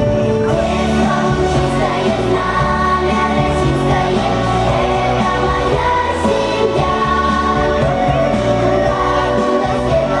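A song: singing over a steady instrumental backing.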